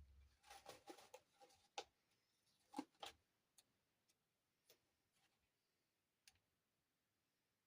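Faint clicks and taps of small plastic dollhouse furniture pieces being handled, a quick cluster in the first three seconds, then thinning to a few light ticks.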